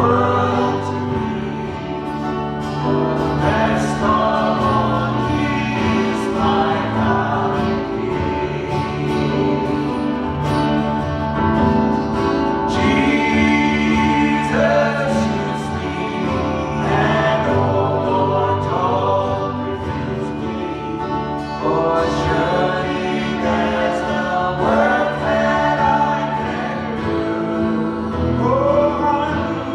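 Gospel worship music: a group of voices singing over instrumental backing, with steady sustained chords.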